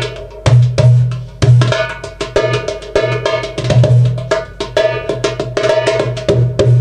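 Darbuka played by hand in a fast solo: deep ringing doum strokes about once a second, with rapid crisp tek and ka strokes between them.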